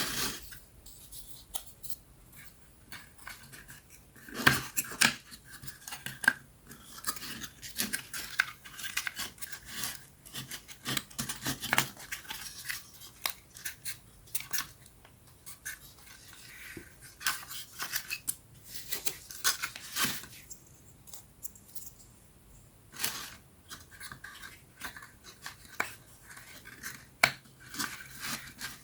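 Thin wooden pieces of a 3D wooden puzzle being handled and fitted together: irregular small clicks, taps and scrapes, with a few sharper knocks about four and a half, twelve, twenty and twenty-three seconds in.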